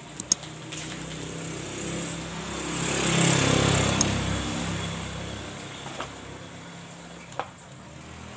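A motor vehicle passing by: engine and road noise swell up to a peak about halfway through, then fade away. Two sharp clicks just after the start.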